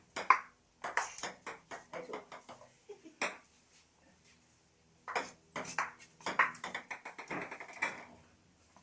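Table tennis ball struck by bats and bouncing on the table in a rally, a series of sharp clicks, with a pause of about two seconds in the middle before a second, quicker run of hits and bounces.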